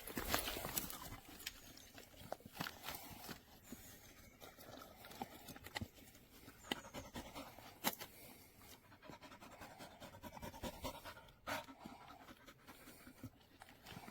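A dog panting, with faint scattered clicks and taps.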